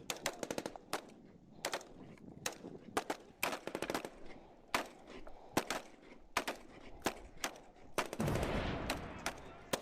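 Airsoft replicas firing: sharp pops in single shots and short rapid bursts. Near the end comes a stretch of rushing, rumbling noise.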